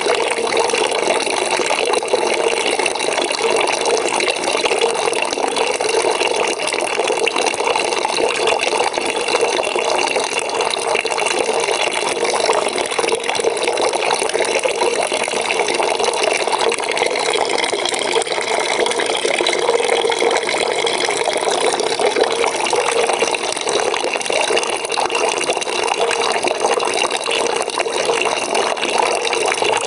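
A bucket filling with water from a running tap, a steady splashing pour that goes on without a break.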